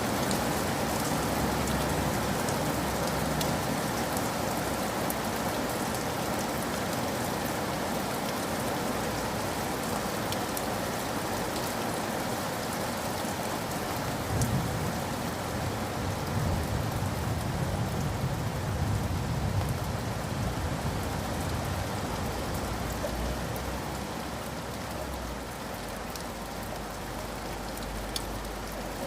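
Steady rain falling and pattering on surfaces, with scattered sharp drops. About halfway through, a low rumble of distant thunder swells for several seconds and fades.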